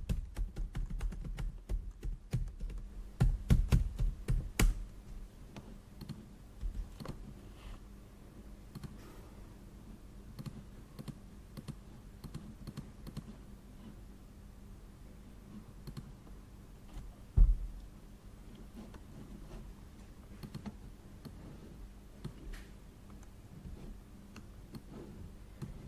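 Typing on a computer keyboard in an office, a quick run of keystrokes for the first few seconds that thins out to scattered clicks and taps. A single heavy thump comes a little past halfway.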